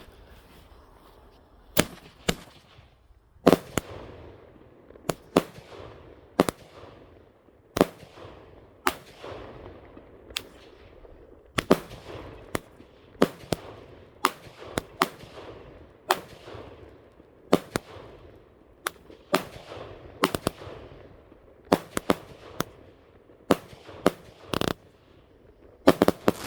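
Consumer fireworks going off in a long run of sharp bangs, about one a second and some in quick pairs, each trailing off after the blast.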